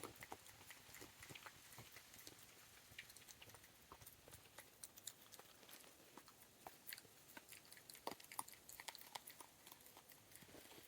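Faint crunching and chewing as a young raccoon eats peanuts: a scatter of small irregular clicks and cracks.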